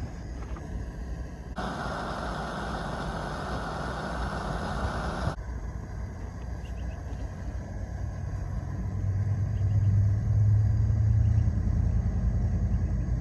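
A steady hiss that starts and stops abruptly, lasting about four seconds. Later, a low vehicle engine rumble grows louder through the second half.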